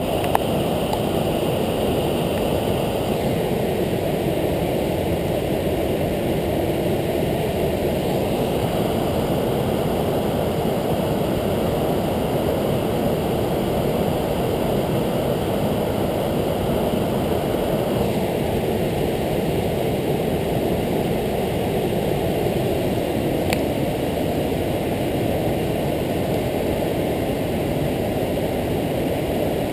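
Waterfall: a large volume of water plunging from the top of the falls, heard as a loud, steady, deep rush of noise that does not let up.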